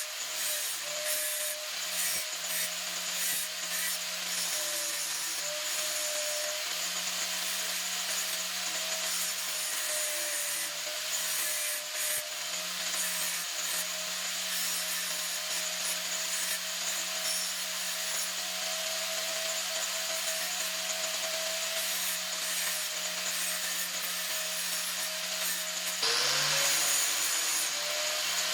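Small electric power tool running and grinding metal. Its motor pitch holds steady, wavering slightly under load, and dips then climbs back about 26 seconds in.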